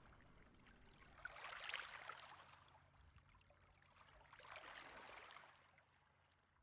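Near silence as the music dies away, with two faint swells of rushing, water-like noise, the first about a second and a half in and the second near the five-second mark.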